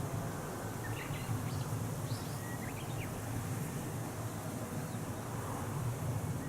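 Wind rumbling on the microphone outdoors, with a few short bird chirps between about one and three seconds in.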